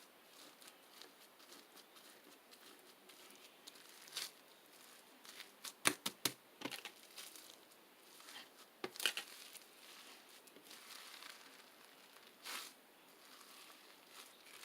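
Slime being squeezed and played with by hand, making quiet crackling with scattered sharp pops and clicks; the loudest come in a quick cluster about six seconds in and again about nine seconds in.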